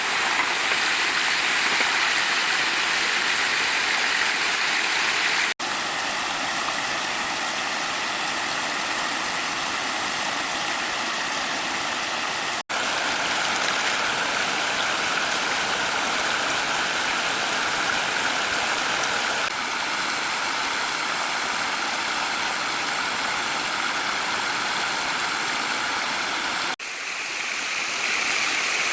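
Fast-flowing water rushing steadily, broken by three sudden cuts at about 6, 13 and 27 seconds in.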